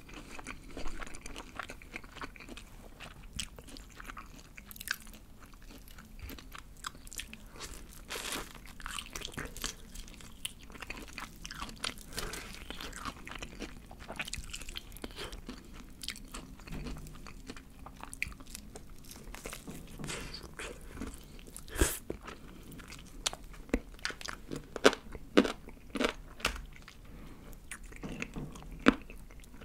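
Close-miked biting and chewing of crispy battered fried chicken, a rapid string of sharp crunches from the crust, with the loudest crunches coming in the last third.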